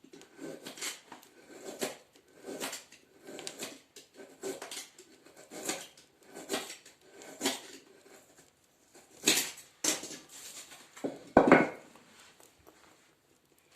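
Short rustling and scuffing sounds, a little under one a second, as paper and kindling are handled in a fireplace stove, with one louder knock near the end.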